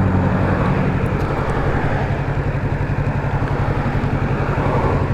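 Kawasaki Z650's parallel-twin engine running steadily at low revs, over a constant rush of road and wind noise.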